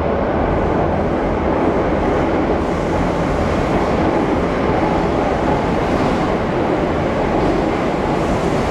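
Madrid Metro train running through the disused station without stopping: a loud, steady rumble of the train on the rails.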